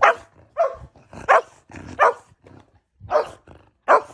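A pet dog barking about six short times, with a pause of about a second partway through. The barks are set off by a person's sneeze just before.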